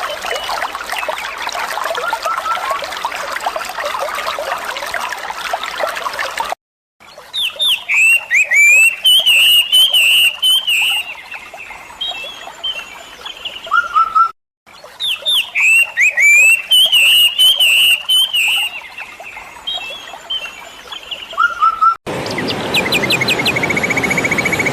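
Running water with faint bird calls for the first few seconds. After a brief gap, a songbird sings loud, quick chirping phrases, the same passage heard twice over with a short break between. Near the end a different trilling birdsong comes in.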